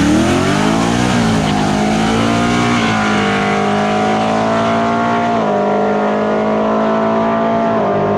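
Car engine revving up sharply over about a second, then held at high, steady revs, with its pitch stepping up slightly twice near the middle and end.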